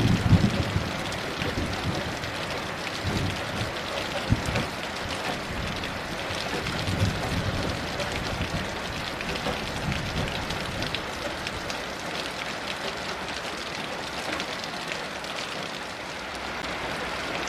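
Heavy rain falling steadily, with scattered drops ticking through it. A low rumble of distant thunder sounds near the start, and fainter rumbles follow a few times.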